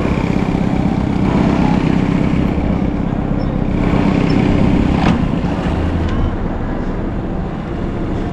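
Small boat's outboard motor running steadily under way, with a sharp click about five seconds in.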